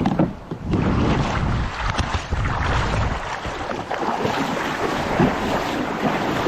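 Wind buffeting the microphone with water splashing and washing around a kayak at sea: a loud, gusting rumble with a hiss of water over it.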